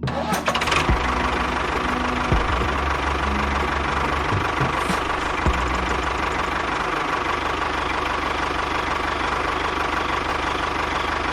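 A small engine running steadily, with a constant whine and a low rumble. A few short knocks come in the first couple of seconds.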